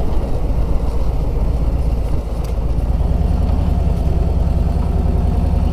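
Harley-Davidson Road Glide's V-twin engine running steadily at cruising speed, with an even low pulsing beat.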